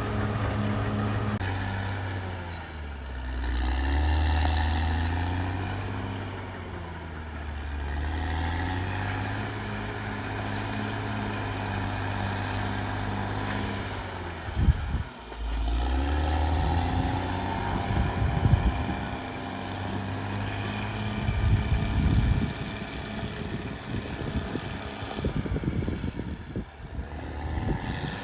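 Caterpillar D6R XL bulldozer's diesel engine running under load, its note dipping and rising as the machine works. In the second half sharp clanks and knocks come from the tracks and blade.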